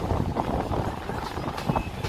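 Mumbai suburban electric local train running, heard from inside the coach: a steady rumble of wheels on the track with a few sharp knocks of rail clatter.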